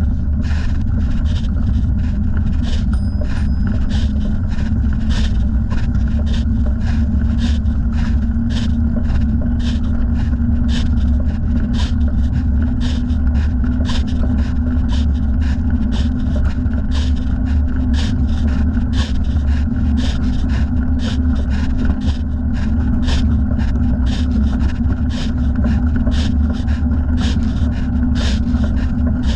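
Steady low rumble of wind and tyres on a moving bicycle, with a light rhythmic ticking or scraping about two to three times a second.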